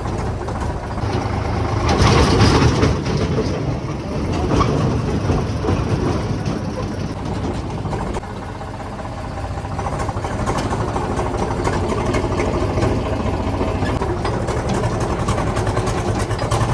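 Eicher 485 tractor's diesel engine running, swelling louder about two seconds in and then settling back to a steady run.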